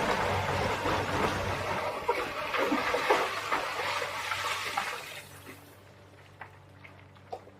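Loud rushing, crackling noise full of small cracks that dies away about five seconds in, over the steady low hum of a Komatsu PC350LC excavator's engine. A few single clicks follow.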